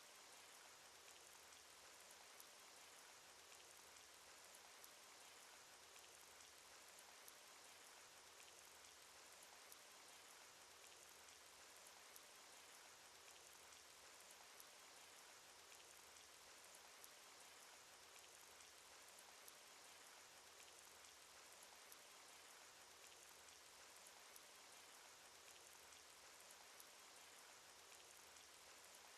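Cartoon rain sound effect: a faint, steady hiss of falling rain with scattered soft drop ticks.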